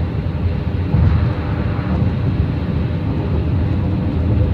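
Steady low road rumble and tyre noise from inside a moving car on the highway.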